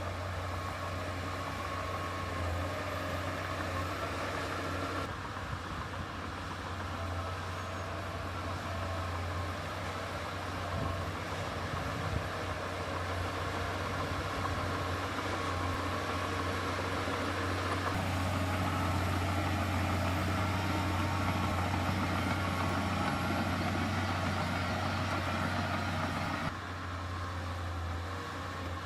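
Heavy diesel engine of earthmoving machinery running steadily, with its deep drone changing tone suddenly a few times and growing louder for a stretch past the middle.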